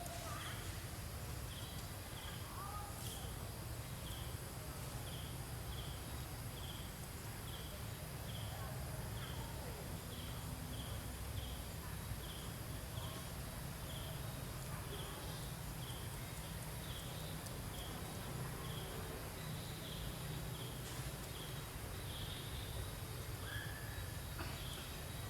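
Outdoor ambience: a small animal repeats a short high chirp about three times every two seconds, steadily, over a low rumble.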